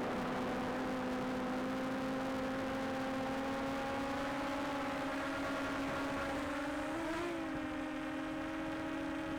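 DJI Air 2S quadcopter drone's propellers whining steadily over a hiss of wind. About seven seconds in, the pitch rises briefly and then settles a little higher as the motors change speed.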